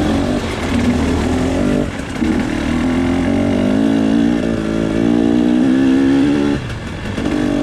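A KTM TPI two-stroke enduro motorcycle running under throttle on the move. The engine note climbs and holds, and it drops off briefly twice as the throttle is shut, about two seconds in and again near the end.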